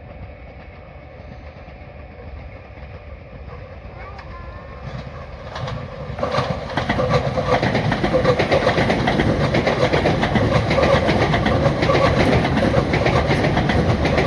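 A train passing close by. The first few seconds are fairly quiet, then about six seconds in the noise rises sharply into a loud, steady rush, with the wheels clacking over the rail joints.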